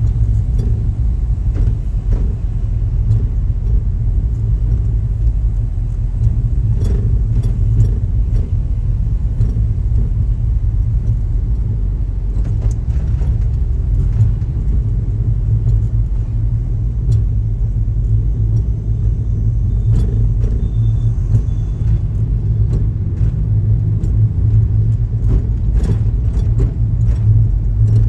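Helicopter in flight, a loud steady low rumble of engine and rotor, with scattered light rattles.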